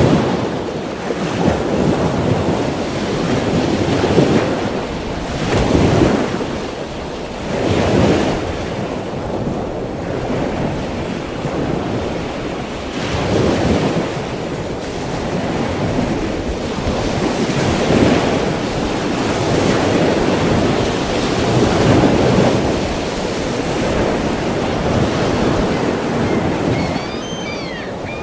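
Ocean waves breaking and washing, a steady rush that swells and ebbs every few seconds. A few short high chirps come in near the end.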